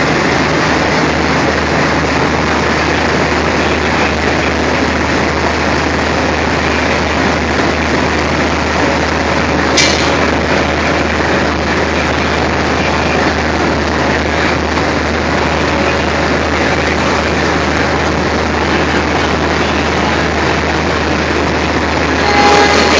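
ALCO diesel locomotive engine running steadily at idle, a constant low hum under a loud even rumble. A single sharp knock about ten seconds in, and a brief louder noise near the end.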